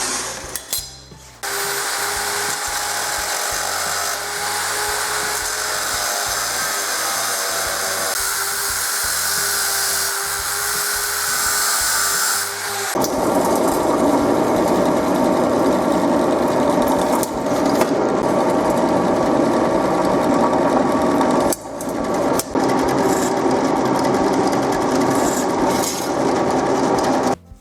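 Power tools working a stainless steel sheet: a slot being cut for the burner, a steady run with a held tone, then from about halfway a noisier stretch as mounting holes are drilled, with two short pauses near the end.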